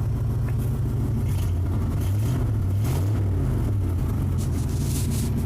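1975 Ford F100's 360 FE V8 running, heard from inside the cab: a steady low engine note that wavers slightly in pitch, with a few faint clicks.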